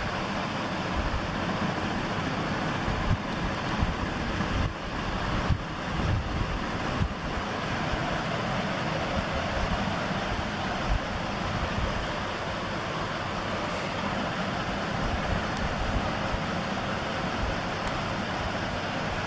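Steady rushing wind and road noise on the microphone of a moving bike, with irregular low rumbling gusts.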